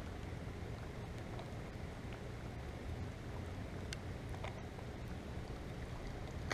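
Light rain falling on a pond: a faint, even hiss with a few faint ticks.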